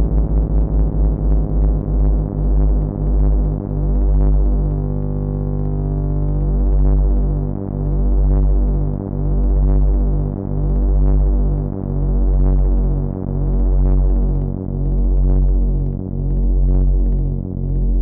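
Moog Minitaur analog bass synthesizer playing a low droning hum meant as a lightsaber hum, its volume pulsing. The pulses slow from several a second at the start to about one every second and a half, with a short steady stretch partway through.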